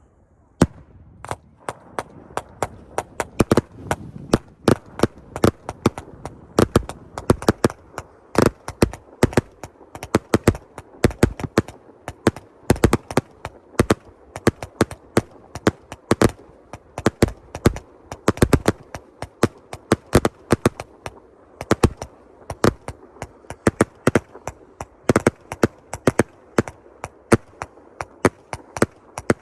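Fireworks going off in a dense barrage: many sharp bangs at an irregular pace, several a second, starting about half a second in.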